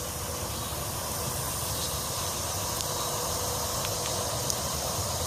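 Steady outdoor background noise: a low rumble under an even hiss, with a few faint, short high chirps or ticks.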